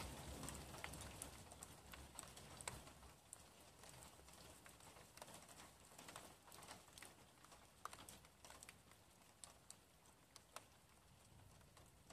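Faint rain in a thunderstorm: scattered ticks of raindrops over a soft hiss, while a low rumble of thunder dies away over the first couple of seconds.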